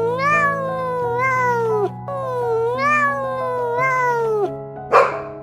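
A cat meowing: two long drawn-out meows, each rising and falling in pitch, over background music. A dog barks once sharply near the end.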